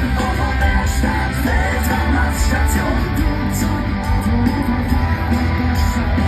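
Live heavy metal band playing loudly and without a break, with a heavy low end.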